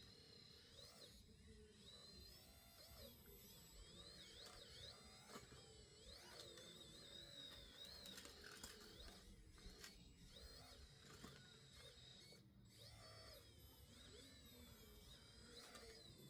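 Faint, wavering whine of a radio-controlled model machine's small electric motor, its pitch rising and falling with the load, with a few faint clicks.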